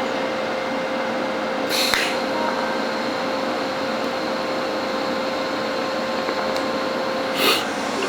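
TIG welder tacking stainless steel: two short arc bursts, one about two seconds in and one near the end, over the steady hum and hiss of the running welding machine.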